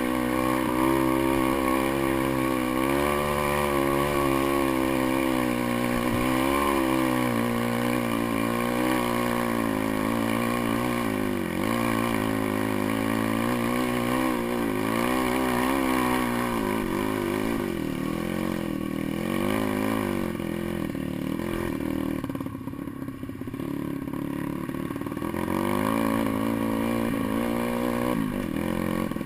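Pit bike engine running on a trail ride, its pitch rising and falling again and again as the throttle is opened and closed. It eases off and drops a little for a couple of seconds about three-quarters of the way through.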